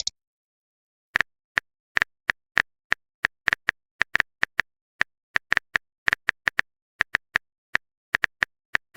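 Phone keyboard typing sound effect: a string of short, crisp tap clicks, about four a second and slightly irregular, starting about a second in, as a chat message is typed out.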